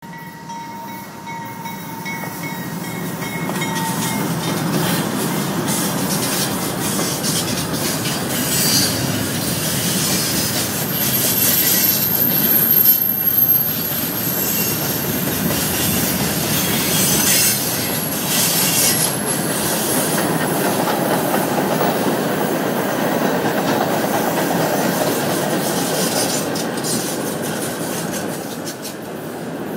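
Freight train rolling past at close range: a steady rumble of steel wheels on the rails, growing louder over the first few seconds. Thin steady wheel squeals ring out in the first few seconds and again, very high-pitched, about twelve seconds in.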